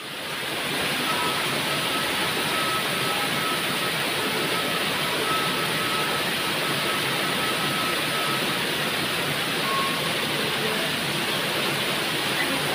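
Heavy rain falling in a steady hiss, fading in over the first second.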